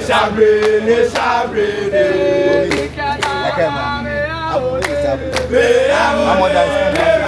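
A group of voices, male singing prominent, singing a chant-like song in chorus with notes held and sliding in pitch, with occasional sharp hits.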